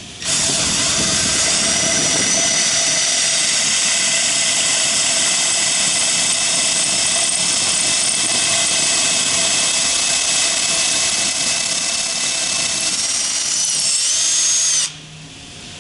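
A high-speed motor running steadily, a high-pitched whine over hiss, which starts abruptly and cuts off near the end, its pitch wavering briefly just before it stops.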